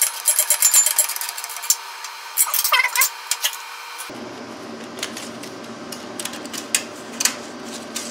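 Metal clinking and rattling from steel parts, bolts and hand tools being handled. The clicks come quickly and close together at first. About four seconds in, a steady low hum starts underneath, and only a few clicks come after it.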